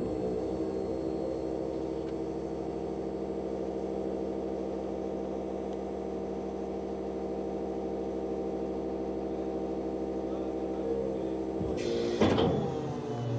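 The hydraulic system of an Isuzu electric garbage compactor truck runs with a steady machine hum while the body is worked to discharge its load. A sharp clunk of metal comes near the end.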